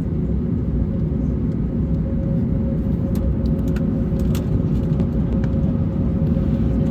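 Steady low cabin rumble of an Airbus A321neo taxiing, with a constant mid-pitched hum over it and a few faint ticks.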